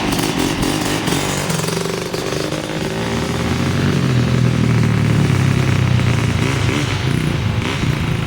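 Dirt bike engine running, picking up and getting louder from about three seconds in, then easing off near the end.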